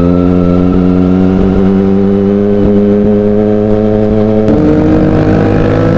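Kawasaki ZX-25R's 250 cc inline-four running loud through an Arrow Pro Race aftermarket exhaust with the catalytic converter and baffle removed. Revs hold fairly steady and creep up, with a shift in the engine note about four and a half seconds in.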